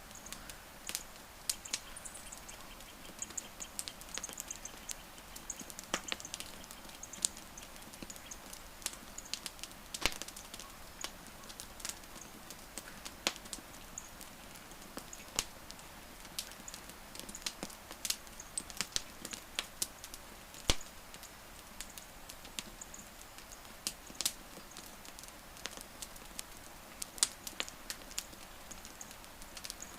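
Wood fire crackling: irregular sharp pops and snaps, some close together, over a soft steady hiss.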